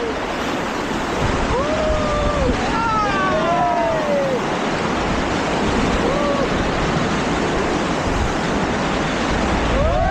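Steady rushing water with wind buffeting the microphone, and people's long drawn-out shouts rising over it a few times.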